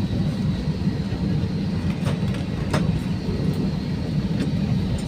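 Steady low rumble of cabin noise inside an Airbus A320 airliner arriving at the gate after landing, with a few faint clicks.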